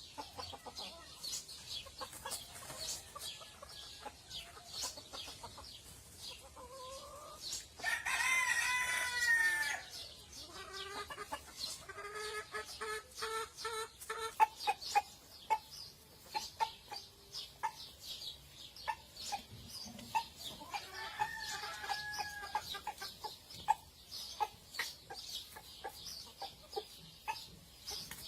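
Polish chickens clucking and calling, with many short sharp clicks throughout. A rooster crows once, loudly, for about two seconds some eight seconds in, and shorter calls follow.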